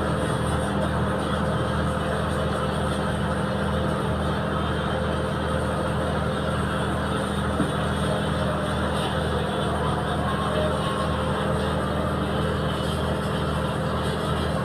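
Boat engine running steadily, with an even low throb.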